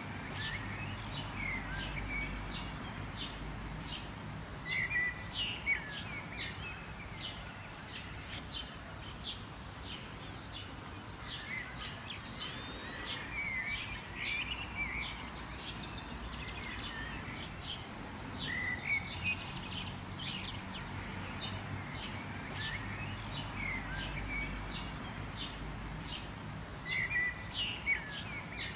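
Birds chirping and calling in a busy chorus of short, quick notes, with louder flurries a few times, over a steady background hiss and low rumble.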